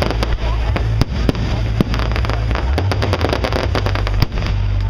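Fireworks display: a dense run of crackling star bursts full of sharp cracks, with a few louder bangs standing out about one, one and a half, two and four seconds in, over a steady low rumble.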